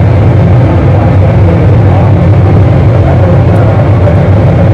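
Live distorted noise music over a PA: a loud, steady wall of sound heavy in the low end, with a wavering layer in the middle.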